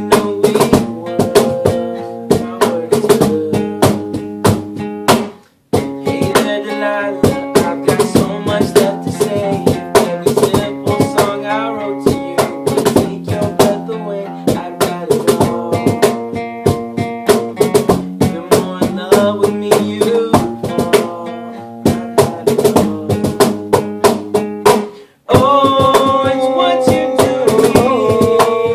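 A band playing: guitar chords over a steady drum beat. The music breaks off for a moment twice, about five seconds in and again about 25 seconds in.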